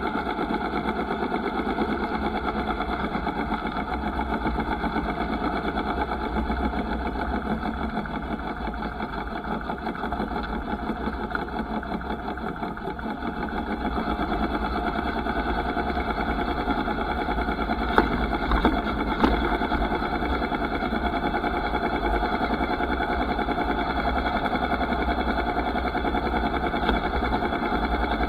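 Motorcycle engine running steadily, with a few sharp knocks about two-thirds of the way through and one near the end.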